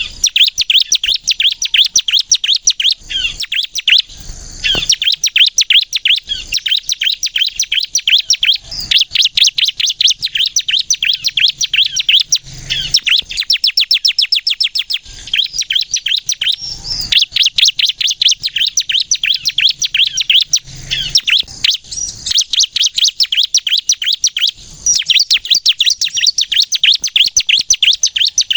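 A ciblek kristal prinia singing in long, rapid runs of sharp high chirps, many notes a second, broken by brief pauses. This is the bird in full song ('gacor nembak').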